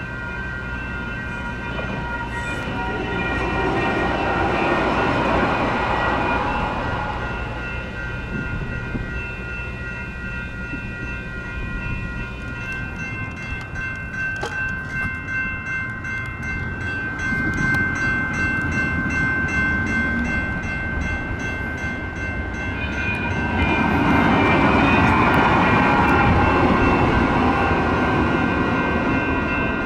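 Light rail trains running past, their rumble swelling up twice, about five seconds in and again near the end, over a steady high ringing of several tones that does not stop.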